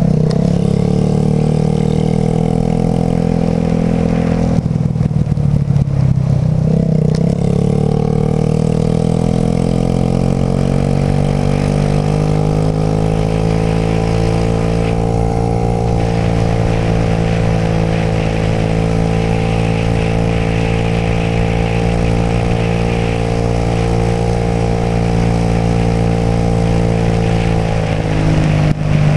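Suzuki AN125 scooter's 125 cc single-cylinder engine under way: the throttle eases off about five seconds in, then the engine pitch climbs steadily as it accelerates and holds at cruising speed, with a hiss that grows with speed, before easing off near the end.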